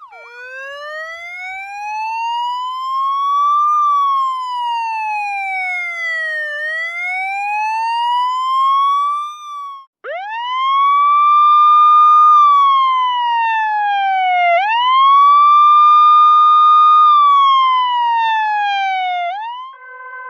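Two police sirens, one after the other. The first is a slow wail, sweeping up and down in pitch over a few seconds each way, and it cuts off about halfway through. The second starts with a quick rise, holds its top pitch, then slides slowly down, twice over, before stopping near the end.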